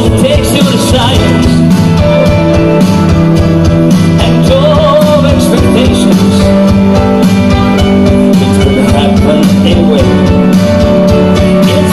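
Rock band playing live, with steady drum beats, guitars and a singer's voice.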